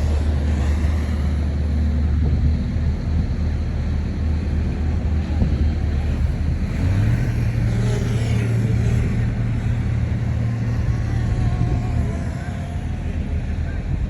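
Heavy diesel engine of an earthmoving machine running steadily under load; about seven seconds in its pitch steps up and holds higher, as the engine is revved.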